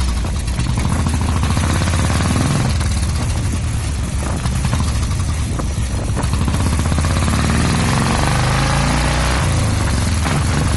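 Royal Enfield single-cylinder engine running through a Red Rooster stainless-steel aftermarket silencer, a steady, rapid beat of exhaust thumps that mixes a boom with a machine-gun-like rattle.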